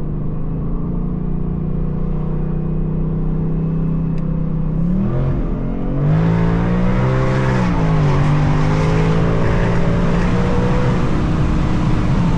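A 2024 Ford Mustang GT's 5.0 V8, running without catalytic converters, cruising steadily, then getting on the throttle for a short pull about five seconds in. The engine gets louder and its pitch climbs, drops back near eight seconds, then holds steady.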